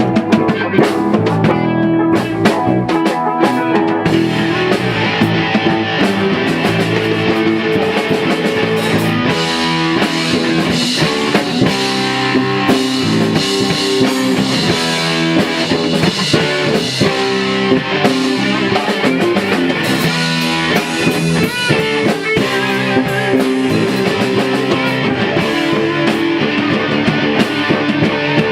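Rock band playing live at rehearsal: guitars and drum kit, with no singing. The sound gets fuller from about four seconds in.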